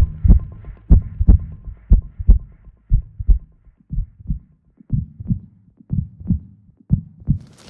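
A series of deep, dull thumps, several falling in close pairs like a heartbeat, at an uneven pace that slows and thins out toward the end.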